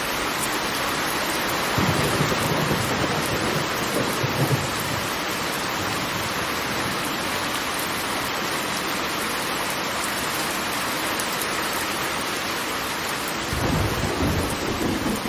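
Steady rushing roar of a large waterfall, with deeper rumbles swelling up about two seconds in and again near the end.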